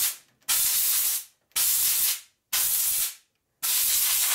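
Compressed-air blow gun fired in repeated blasts of hiss, each about a second long with short gaps between, blowing metal chips and cutting oil off a reamer.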